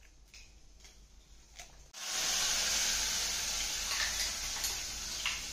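Food tipped from a steel cup into hot oil in a kadai, sizzling: the sizzle starts suddenly about two seconds in and eases slowly. A few light clinks of a spoon on steel come over it.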